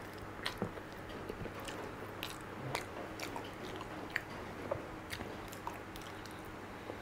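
Close-up mouth sounds of a person eating soft, creamy durian flesh: irregular wet chewing, smacking and small clicks, with a couple of slightly sharper clicks around the middle.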